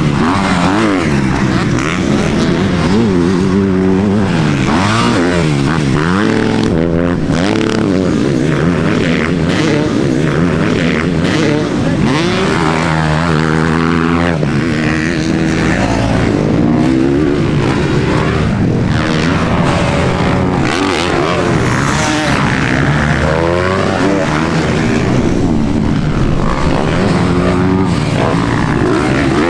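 Dirt bike engines revving hard, their pitch rising and falling again and again, with more than one bike at a time.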